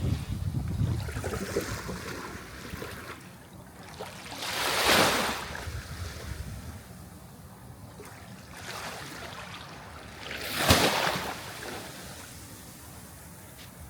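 Sea waves breaking, with a steady wash of surf between them. Two waves swell up and crash, about five seconds in and again near eleven seconds.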